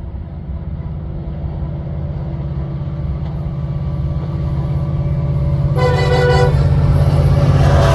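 Approaching freight train led by an EMD SD70M-2 diesel locomotive, its two-stroke 16-cylinder engine giving a low rumble that grows steadily louder. About six seconds in the locomotive's air horn sounds one short blast.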